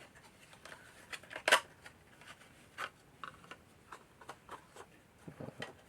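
Light clicking and rustling of small plastic model-kit parts being handled and put away, with one sharper click about one and a half seconds in.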